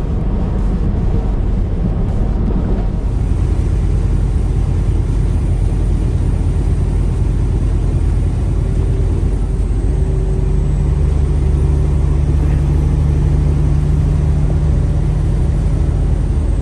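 Semi-truck driving on the highway: a steady drone of engine and road noise, with a low hum that grows stronger about ten seconds in.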